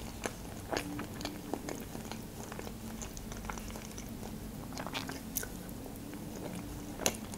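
Close-miked chewing of Olivier salad, with soft wet mouth clicks and a few sharper clicks scattered through. A faint steady hum lies underneath.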